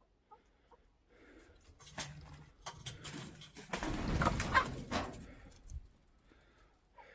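Aviary birds calling now and then, with short calls near the start and end, over a rustling, scuffing noise that is loudest about four seconds in.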